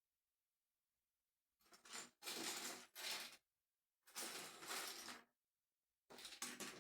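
Small plastic LEGO pieces clattering and rattling as they are sifted through by hand, in four short bursts of a second or so each.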